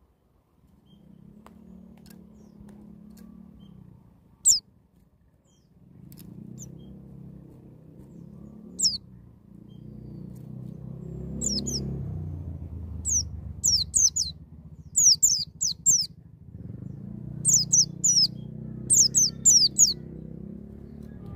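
White-eye (pleci) calling in sharp, high, downward-sweeping notes. The notes come singly at first, then in quick runs of three or four in the second half. A low background rumble comes and goes underneath.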